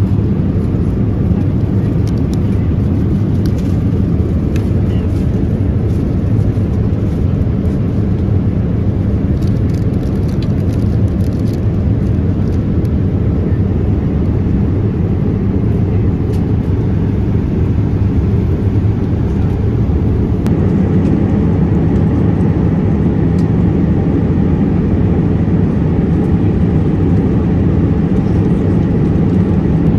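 Steady low rumble of a Boeing 787-8 Dreamliner heard from inside the cabin, with faint light ticks during the first dozen seconds and the rumble growing slightly stronger after about twenty seconds.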